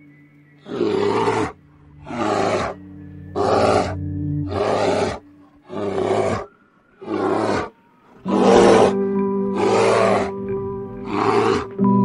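Brown bear giving a series of about nine short roars, roughly one a second, over background music.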